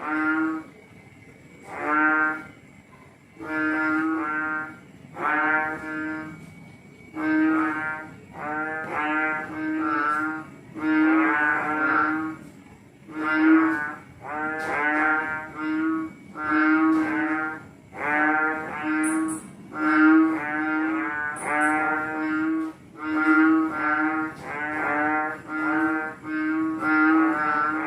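Frogs calling: a run of loud, pitched calls, each under a second long, coming closer together after the first few seconds until several overlap.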